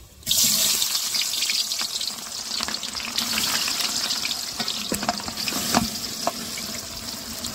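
Ingredients tipped into hot oil in a cooking pot, setting off a sudden loud sizzle that goes on as the frying continues, with a few sharp knocks partway through.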